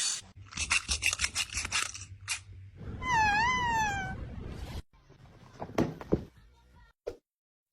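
A domestic cat meows once, a single call about a second long that rises and then falls, about three seconds in. It is preceded by a quick run of tapping or rattling, and a few sparse knocks follow.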